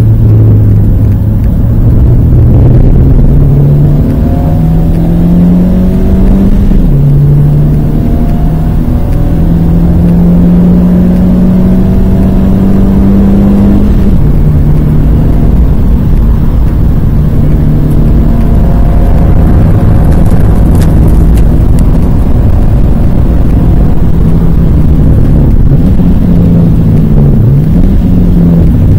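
Renault Twingo 1.2-litre four-cylinder engine, heard from inside the cabin, pulling hard up through the revs. It changes up twice, about 7 and 14 seconds in, and each time the pitch drops sharply before it climbs again. It then runs at steady revs with a brief dip near the end, over heavy road and tyre noise.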